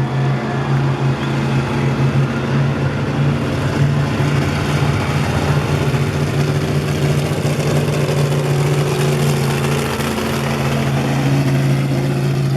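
Monster truck engine idling with a deep, steady hum, dipping slightly about ten seconds in.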